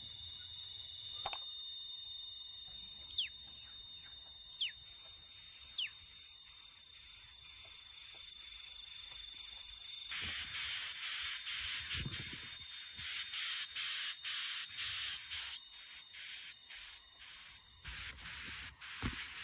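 Steady high-pitched drone of insects, with three short falling call notes, likely from a bird, a few seconds in. About halfway through the drone turns denser and pulses rapidly.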